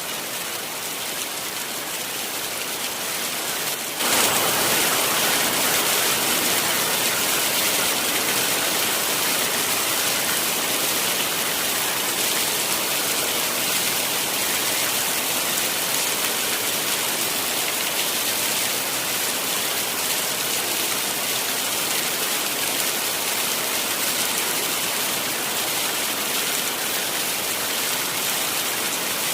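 Heavy rain falling steadily, a dense hiss with no distinct drops. About four seconds in it abruptly becomes louder and fuller, then holds steady.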